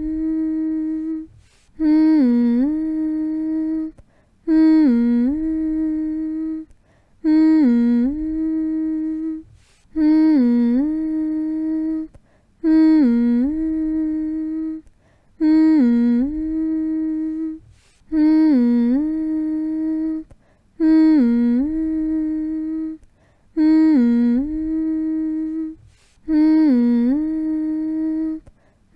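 A person's voice humming one note over and over as a soothing baby-sleep hum, each hum about two seconds long, opening with a short dip and slide up in pitch before holding steady. Brief pauses for breath come between hums, about every two and a half seconds.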